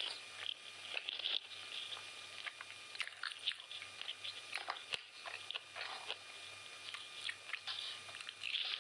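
Close-miked eating of chicken biryani: irregular wet clicks and crackles of chewing and biting.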